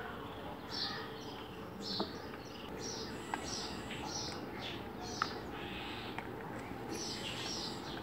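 Small songbirds chirping: short high calls repeated about twice a second, with three sharp taps, about two, three and five seconds in.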